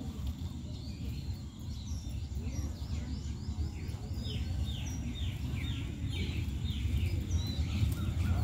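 Distant diesel locomotive of an approaching train, a low rumble that grows slowly louder. Birds chirp over it in quick runs of short falling chirps.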